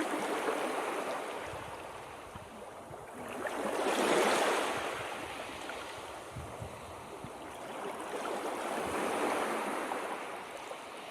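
Ocean waves breaking and washing on a shore, a steady hiss that swells with a big wave about four seconds in and a smaller swell about nine seconds in.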